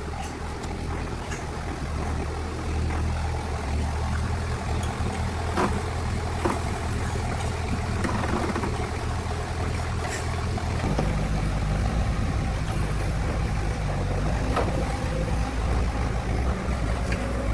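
A motor running steadily, with scattered sharp clicks and knocks, and a change in its tone about eleven seconds in.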